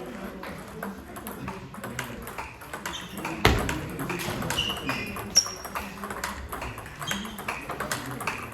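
Irregular light clicks and taps of small hard objects, with one loud knock about three and a half seconds in and a short high ping about five seconds in.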